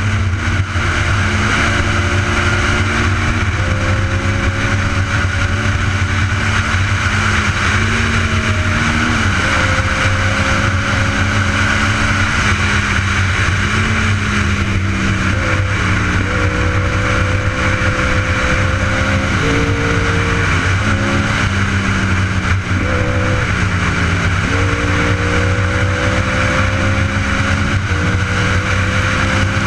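Motorcycle engine running under way, its pitch climbing slowly and then changing in steps as the revs rise and drop through gear changes, with steady wind rush over it.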